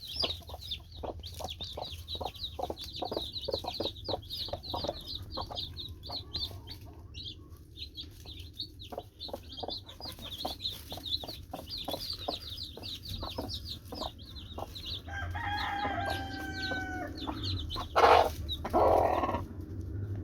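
Backyard chickens: chicks peeping rapidly and without pause, mixed with short clucks from adult birds. About three-quarters of the way through, an adult bird gives one drawn-out call lasting a couple of seconds. Near the end come two loud rustling bursts.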